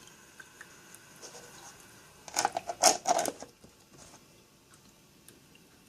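A quick run of clicks and hard-plastic rattling about two and a half seconds in, loudest near three seconds, over a faint steady hiss; after the rattling the background hiss drops away.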